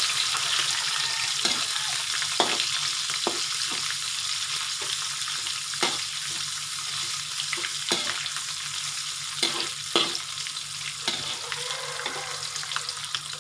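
Dried anchovies frying in hot oil in a wok, with a steady sizzle. A metal spatula stirs them, scraping and clicking against the wok now and then.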